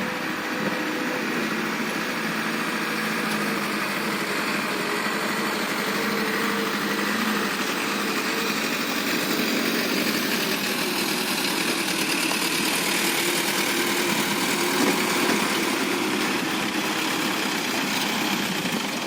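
Diesel dump truck engine running steadily under load on a steep uphill climb, a continuous drone whose pitch drifts only slightly.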